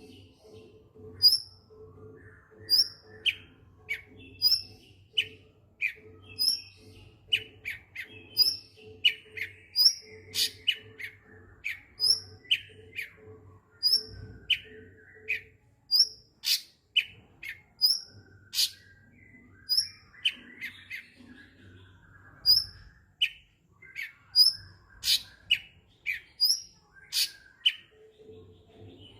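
Cucak cungkok songbird singing in full voice: a long run of short, sharp, high chirps about one or two a second, with softer twittering between them. A faint steady low hum sits underneath.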